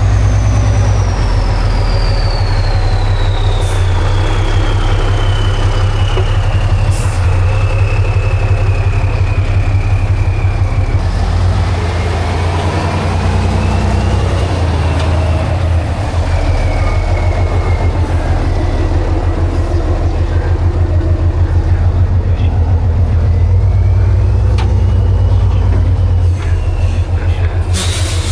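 Heavy off-road trial truck's diesel engine running hard under load, with a deep pulsing note. Over it a high whine falls slowly in pitch for about ten seconds, then rises and falls again twice.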